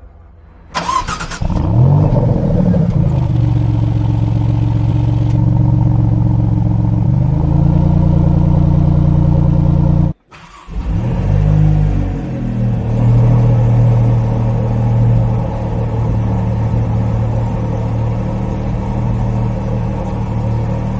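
Maserati MC20's twin-turbo V6 starting, its pitch swinging up and back down before it settles into a steady idle. The sound cuts off about ten seconds in, then the engine starts again with the same swell and idles steadily.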